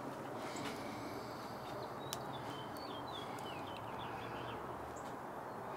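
Quiet outdoor ambience: a steady low hiss with a short run of faint bird chirps about two to three seconds in, and one faint click just before them.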